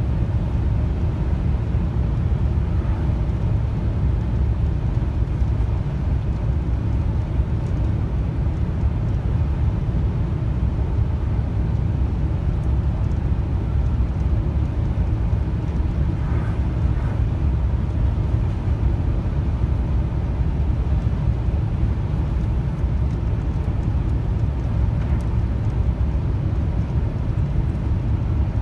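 Steady low drone of a truck driving at road speed, engine and tyre noise heard from inside the cab.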